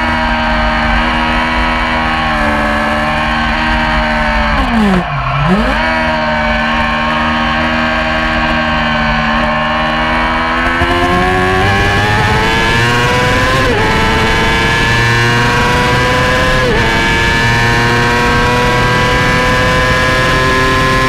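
Yamaha YZF-R6 600cc inline-four racing engine running at high revs. The revs drop sharply and pick back up about five seconds in, as on braking and downshifting for a corner. Then they climb steadily through the gears, with quick upshift dips about two-thirds of the way through and again a little later.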